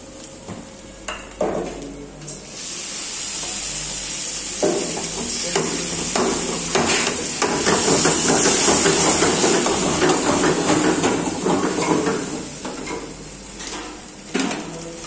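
Cashew curry frying in a hot iron kadai: a metal ladle knocks and scrapes against the pan, then from about two seconds in a loud, steady sizzle as gravy goes into the hot oil and is stirred, easing off near the end.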